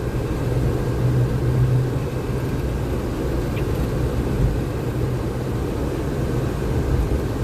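Steady engine and road noise of a moving vehicle, an even rumble with a constant low hum.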